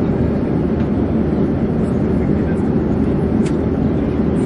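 Airplane in flight: a steady, even low rumble with no change in level.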